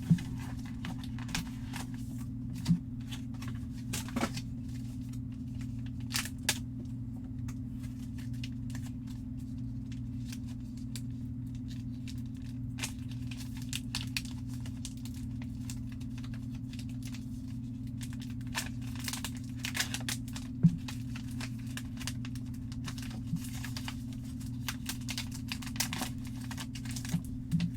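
Box of trading cards being opened and handled: scattered tearing and crinkling of wrapping, with soft clicks and rustles as the cards are handled, a few louder clicks among them, over a steady low hum.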